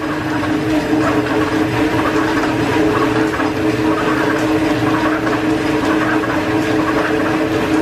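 Steam-driven workshop machinery running steadily: a continuous mechanical noise with a steady whine that keeps an even pitch.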